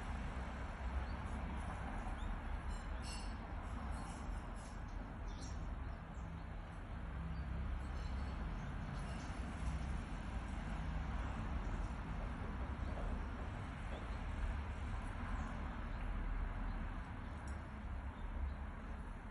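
Garden ambience: a steady low rumble and hiss with faint, scattered high chirps from small birds, a cluster of them a few seconds in.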